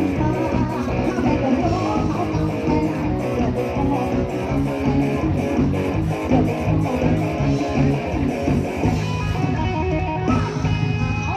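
A live band playing an instrumental passage led by guitar, over bass and a steady drum beat.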